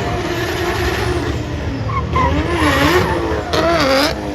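Drift car's engine revving up and down as it slides, with tyres squealing; the revs swing repeatedly and there is a louder surge of tyre noise near the end.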